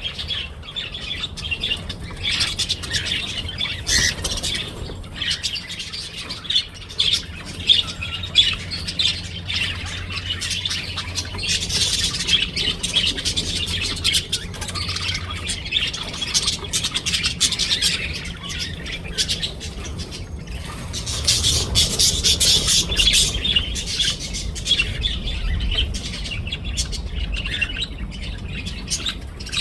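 Budgerigars chattering and warbling without a break, a busy mix of chirps, squawks and quick clicks, growing louder about a third of the way in and again after two-thirds.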